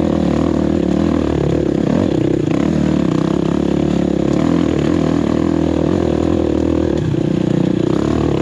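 Enduro dirt bike engine running steadily while being ridden on a trail, with small changes in revs.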